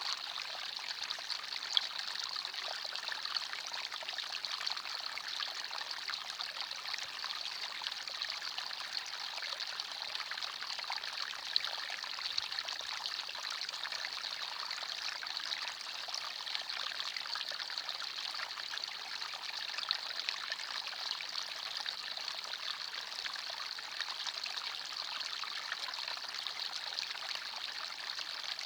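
Forest stream running and trickling over rocks: a steady, even splashing of water with small scattered drips and splashes.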